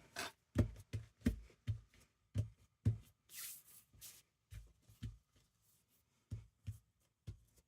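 Hands pressing and smoothing glued paper down onto a journal page: a string of soft, irregular taps with a couple of brief paper rustles.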